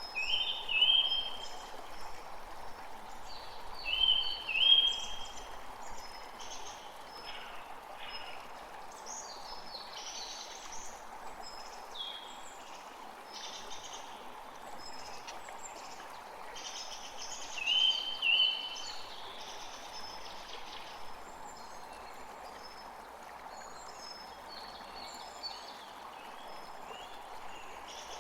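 A forest stream flowing steadily, with several songbirds singing over it. A loud phrase of rising whistled notes comes three times: near the start, about four seconds in, and at about eighteen seconds.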